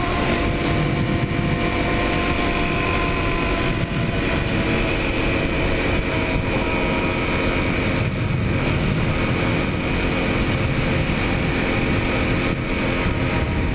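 Single-cylinder Honda dual-sport motorcycle engine running at a steady speed while riding, its note holding at a nearly constant pitch.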